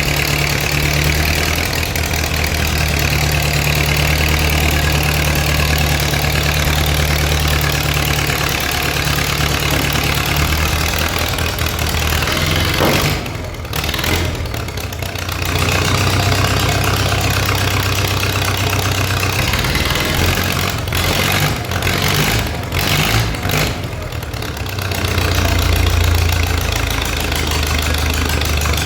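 1958 Case 510 tractor engine idling steadily after a cold start on choke, loud with its exhaust open and the muffler not yet fitted. The sound thins out briefly about halfway through and again a few times later.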